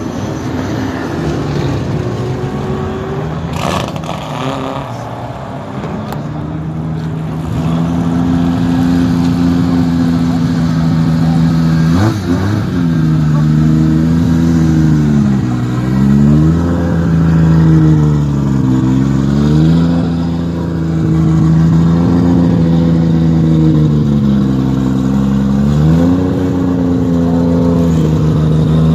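A car engine held at steady raised revs, the revs dropping and climbing back several times, with one quick rev about twelve seconds in, as cars wait in the staging line. Voices can be heard in the background.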